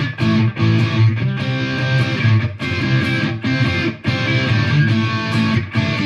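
Electric guitar, a Fender Stratocaster played through a Fender Mustang GTX100 amp on a gated preset: rhythmic chord stabs whose sound is chopped off sharply between strikes by the noise gate.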